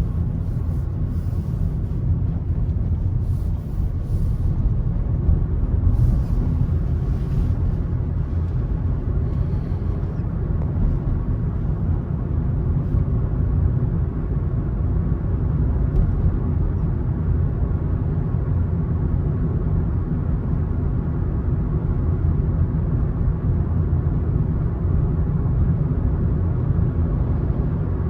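A car driving at steady speed: a low, even rumble of tyres on the road and the engine, with a few faint, brief higher hisses in the first ten seconds.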